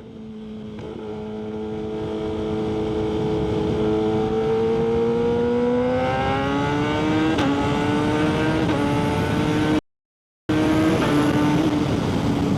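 Kawasaki ZX-6R 636 inline-four with an M4 aftermarket exhaust running, its note fading in and climbing slowly in pitch with a few small jumps, then holding steady. The sound cuts out completely for about half a second near the ten-second mark.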